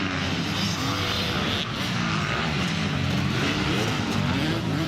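Several motocross bike engines revving, their pitch rising and falling as they overlap.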